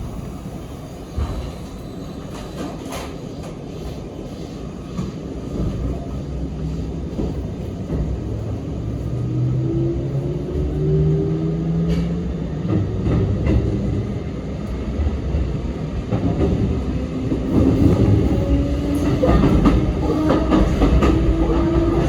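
Sanyo Electric Railway 3050 series electric train heard from inside the passenger car, pulling away and gathering speed. A motor whine rises in pitch over the rumble and clicking of the wheels on the rails, getting louder as the train speeds up.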